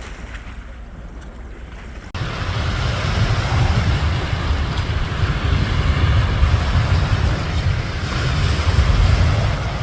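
Wind buffeting the microphone, a loud rumbling rush that starts suddenly about two seconds in, over the steady wash of the sea.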